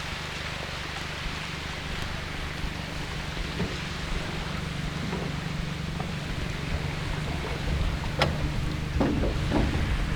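Small aluminium boat on the water in strong wind: wind and water noise over a steady low hum, with a few sharp knocks near the end.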